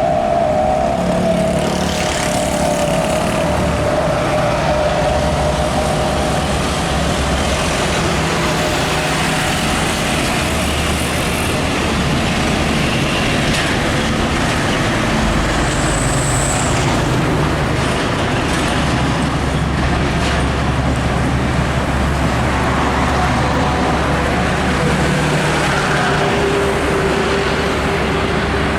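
Heavy container trucks driving past in traffic: a steady drone of diesel engines and tyre noise.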